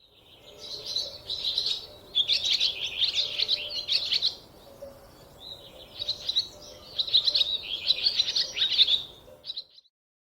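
Squirrel calling with rapid high-pitched chirps, in two runs of about four seconds each with a short lull between, stopping suddenly near the end.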